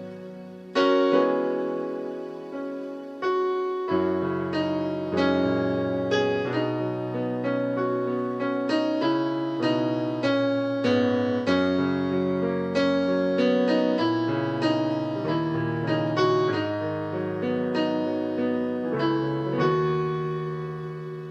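Solo piano or electric piano playing slow sustained chords with a melody on top, a bass line coming in about four seconds in.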